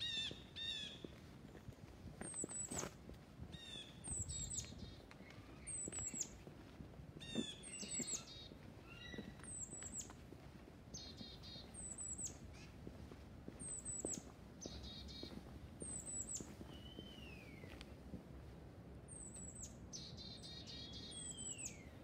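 Songbirds chirping and calling: short high chirps every second or two, with a couple of slurred downward whistles near the end.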